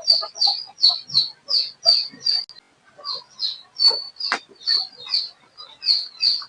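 A bird chirping over and over, short high chirps about three a second, with a brief pause about three seconds in.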